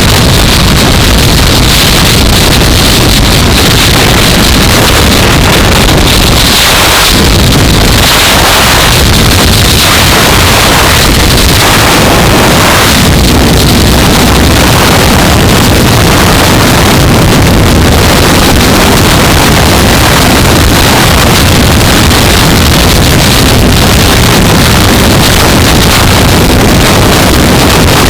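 Wind rushing hard over a helmet-mounted camera microphone while a 2015 Yamaha R3's 321 cc parallel-twin engine runs underneath at riding speed. The noise is loud and steady throughout.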